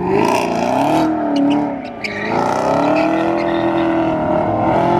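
Cars revving their engines hard as they pull away, the pitch climbing and falling with each rev, with a brief lull about two seconds in.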